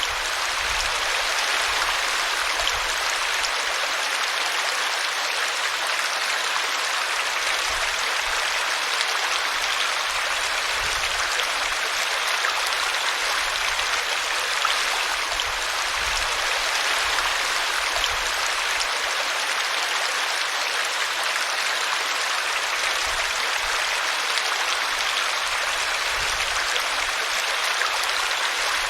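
Small brook babbling steadily as it spills over a tree root.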